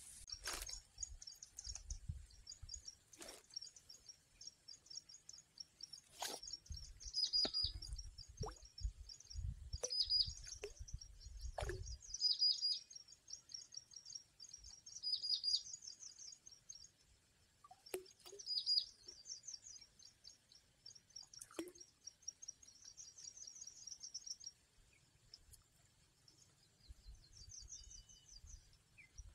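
Small birds chirping in quick, repeated high trills. A low rumble runs through the first twelve seconds, and a few sharp clicks sound at intervals.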